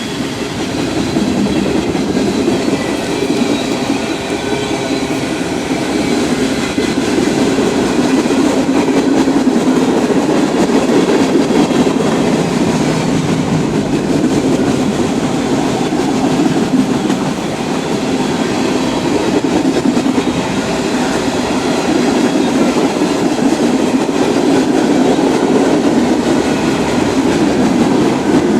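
Freight train cars rolling past close by: a steady, loud rumble of steel wheels on the rails, with clattering over the track.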